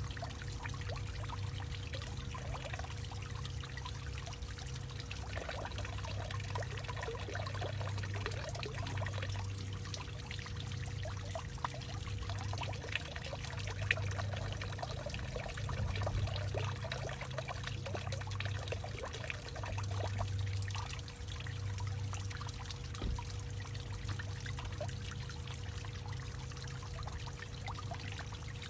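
Water trickling and dripping, with many small irregular plinks over a steady low hum.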